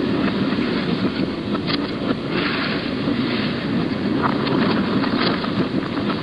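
Narrow-gauge train running along the track: a steady rumble with scattered faint clicks.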